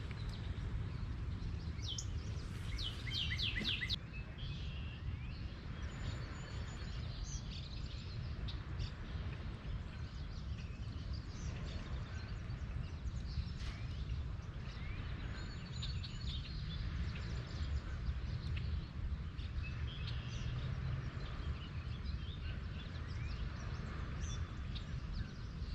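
Wild birds calling and chirping over a steady low rumble, with a quick run of high chirps a couple of seconds in.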